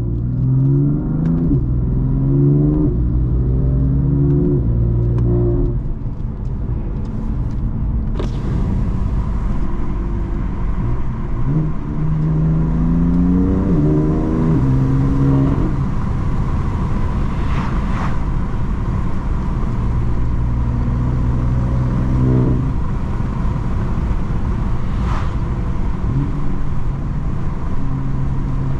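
BMW M3 F80's twin-turbo inline-six with M Performance exhaust accelerating through the gears: the engine note climbs and drops back at each upshift, then settles into a steady cruise with one dip in pitch. A few short sharp cracks come in between.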